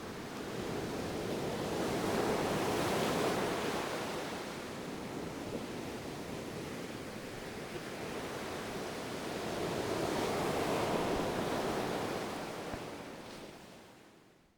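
Ocean waves washing on a shore, two slow swells of surf rising and falling, then fading out near the end.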